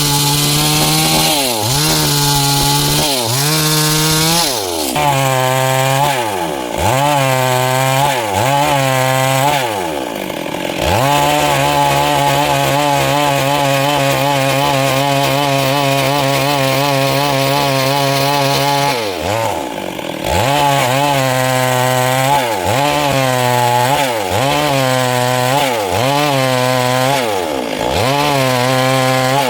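Stihl MS 382 two-stroke chainsaw cutting wood, its engine speed dipping and recovering about once a second. Midway through it is held at a steady high speed for about eight seconds, then the dips resume.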